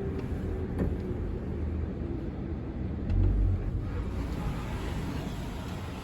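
Low rumble of a Toyota Corolla creeping forward into an automatic car wash bay, heard from inside the car, with a click just under a second in and a brief low thump a little over three seconds in.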